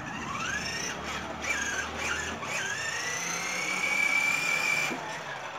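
Whine of a child's battery-powered ride-on toy motorbike's electric motor and gearbox. The pitch rises and falls as it speeds up and slows, then climbs and holds steady before cutting off about five seconds in.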